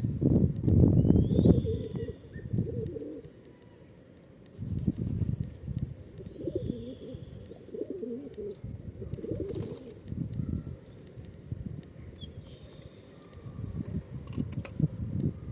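Feral pigeons cooing in repeated low bursts, with a few short high chirps from other birds.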